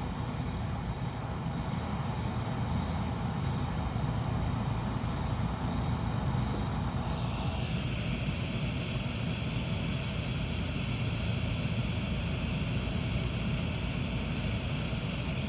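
Hot-air gun blowing steadily on a low 120-degree setting to soften the phone's adhesive, a continuous rushing hum. About halfway through, a higher steady whine joins in.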